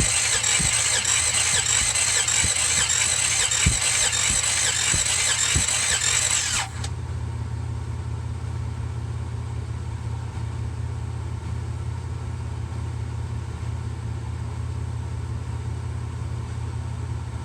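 Starter motor cranking the 1966 Buick Riviera GS's engine for about seven seconds on a compression test of the number 8 cylinder, with no firing. The cranking stops abruptly and a steady low hum remains.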